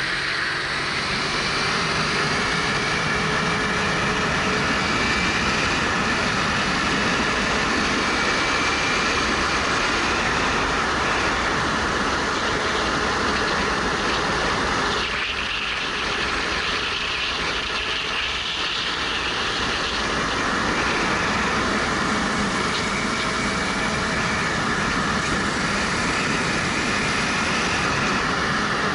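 Wind rushing over a helmet-mounted action camera on a moving motorcycle, with the 2013 Suzuki GW250's parallel-twin engine running under it, its tone drifting as the revs change.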